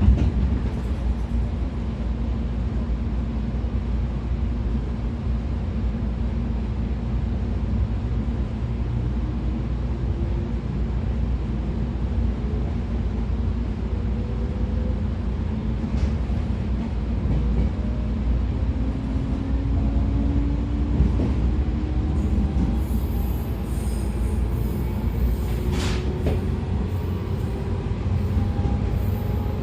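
113 series electric train running: steady rumble of wheels on rail, with the whine of its MT54 DC series-wound traction motors and gears slowly rising in pitch as the train gathers speed. A brief knock comes right at the start.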